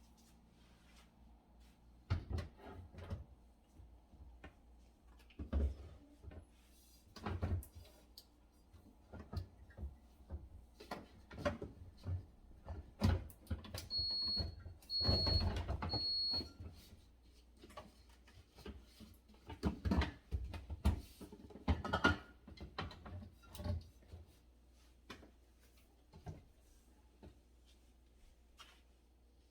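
Food containers and jars being set down and moved around on refrigerator shelves: a string of knocks and clunks, busiest in the middle. Three short high beeps sound about halfway through.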